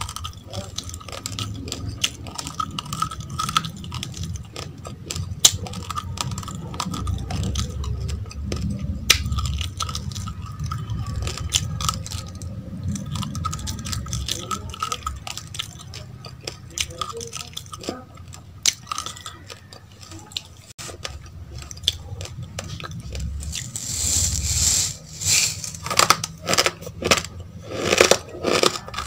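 Close-miked crunching and chewing of uncooked rice grains, a dense run of small crisp cracks over a low rumble. Near the end come louder, sharper bursts as the plastic cup of rice is tipped to the mouth.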